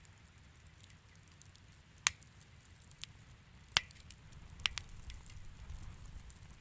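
Wood fire crackling in a fireplace: a few sharp pops and snaps over faint hissing and ticking, with a low rumble from the flames.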